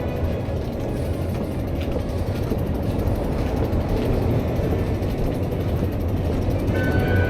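Steady wind rumble on the microphone and road noise from a moving bicycle.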